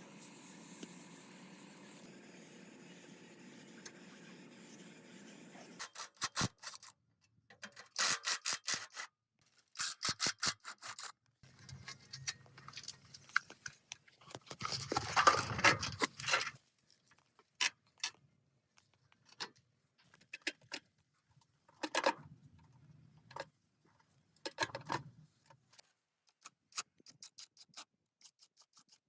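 Hand tools working on metal parts: a steady hum cuts off about six seconds in, then a run of clicks, taps and short scrapes, with the loudest scraping burst about halfway through.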